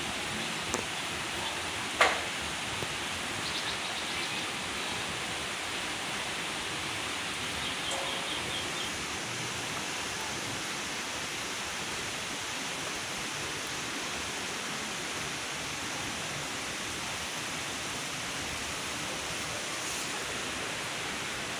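Steady rain falling on the hillside trees, an even hiss with no pauses. A single sharp tap about two seconds in.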